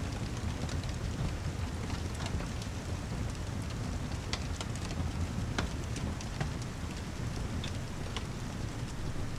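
Steady rain with a deep, even rumble underneath, mixed with scattered sharp crackles from a wood fireplace.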